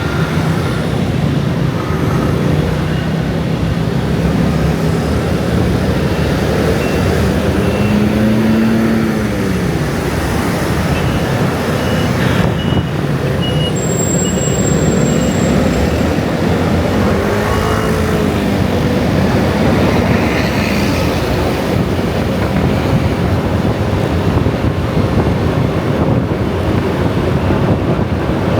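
Heavy, continuous road traffic, mostly motor scooters, streaming past as a steady engine and tyre noise. A couple of vehicles pass close, their engine pitch rising and then falling.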